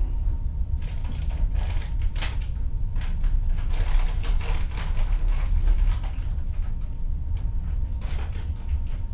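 Sea water rushing and splashing against a ship's hull, heard through a cabin porthole, in uneven surges over a steady low rumble of the moving ship.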